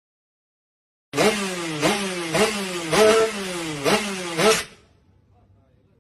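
Two-stroke motorcycle engine revved in quick repeated throttle blips, about two a second, each a sharp rise in pitch that sags back. It stops just before the end.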